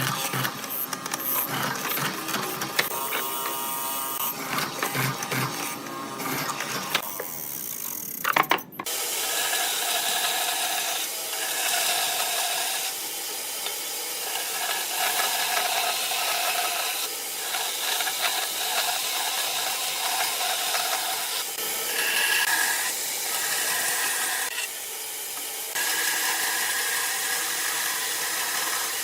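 A power tool running on wood, a steady noisy sound whose pitch bands shift as it works. The first nine seconds or so hold a different, busier sound of clicks and steady tones that stops abruptly.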